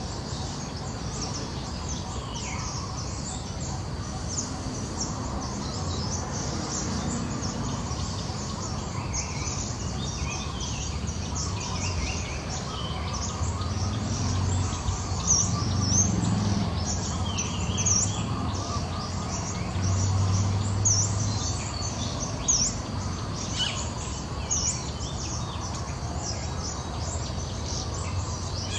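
Birds chirping: many short, high chirps scattered throughout, over a low rumble that swells around the middle.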